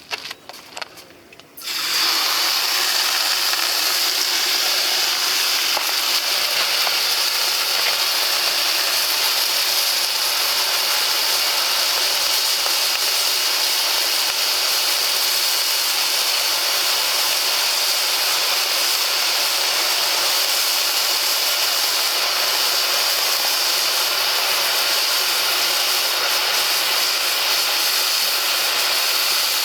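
Water poured into a hot sauna stove's steam generator flashing into steam. A loud, steady hiss starts suddenly about two seconds in.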